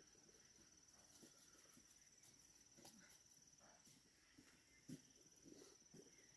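Faint, steady high-pitched insect trill, cricket-like, with scattered soft rustles and knocks underneath.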